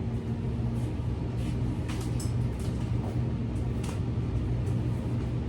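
A steady low hum, with a few faint clicks and light knocks about two and four seconds in.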